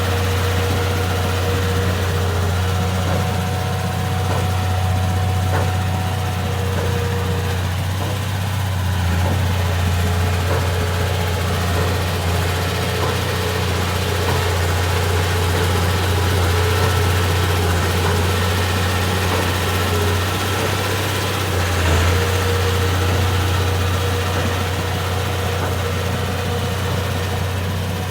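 Bulldozer diesel engine running steadily at idle, a constant low hum with a few faint clicks and knocks.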